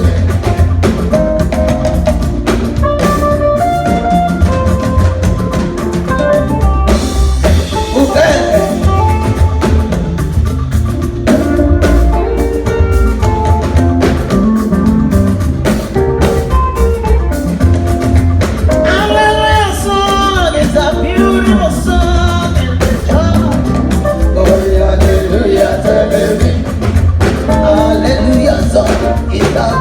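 Band music with singing over a drum kit, guitar and heavy bass: a Yoruba gospel song.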